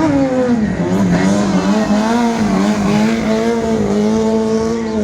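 Motorcycle engine running at high revs, its pitch held fairly steady with small rises and falls, with a dip about a second in.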